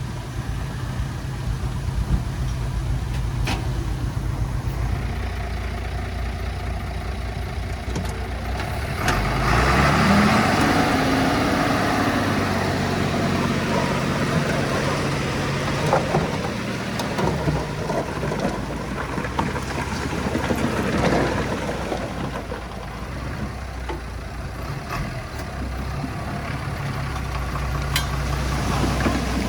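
Heavy-equipment diesel engine running steadily, then revving up about nine seconds in with a loud rushing noise over it for several seconds, before settling back to a steady run.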